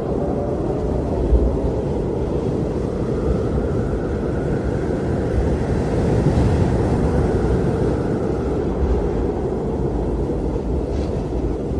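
Blizzard wind blowing steadily: a deep, low rush of noise with a fainter higher tone that swells and fades over a few seconds.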